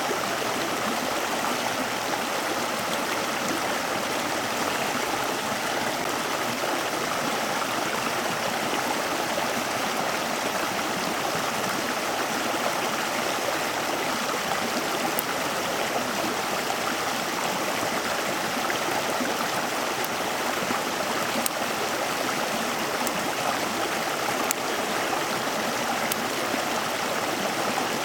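Steady rush of flowing water, like a stream, with a few faint sharp ticks in the second half.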